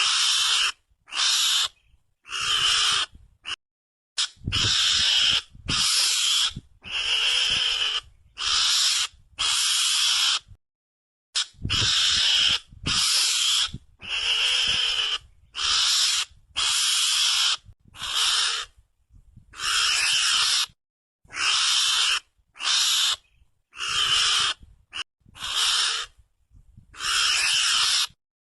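Mongoose lure-call recording: a long string of hissy, high-pitched cries, each under a second, repeated with short silent gaps between them.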